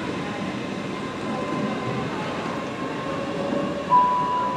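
Passenger train running through the station, a steady rumble with a faint motor whine. A loud, steady high note sounds suddenly near the end, the first of a two-note high-then-low signal.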